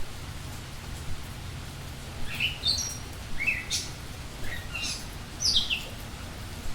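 Small birds chirping: a run of short, high chirps in the middle few seconds, over a steady low background hum.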